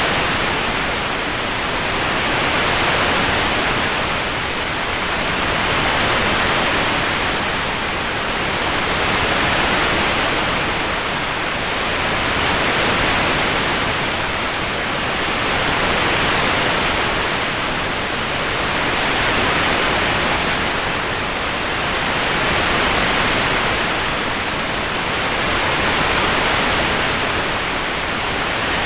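Steady rain-sound ambience: an even hiss with no separate drops, swelling gently and easing about every three seconds.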